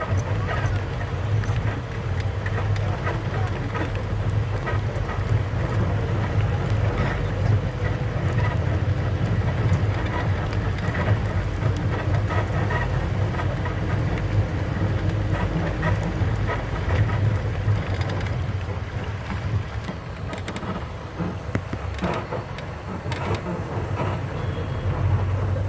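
Steady low rumble of a moving vehicle's engine and tyres on the road, heard from inside, with scattered small clicks and knocks.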